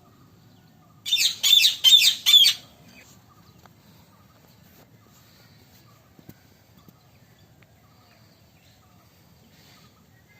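A parrot giving a quick run of about five shrill, screeching calls about a second in, lasting about a second and a half; afterwards only faint background noise.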